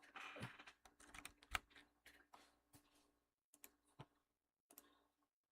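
Faint, irregular clicks and taps at a desk, with a short rustle in the first second and a sharper click about a second and a half in.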